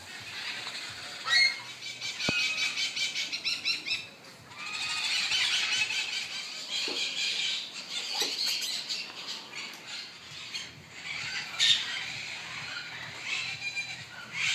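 Animal calls: bursts of rapid, high squawking and chattering, with a sharp single call now and then.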